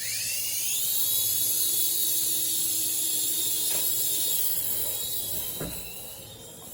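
Small electric motors of a toy remote-control helicopter whining as the rotors spin. The high whine rises in pitch over the first second as the motors spin up, holds steady, then fades toward the end.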